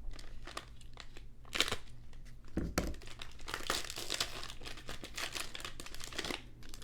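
Trading card pack wrapper being torn open and crinkled by hand, with irregular rustling and a dull knock just under three seconds in.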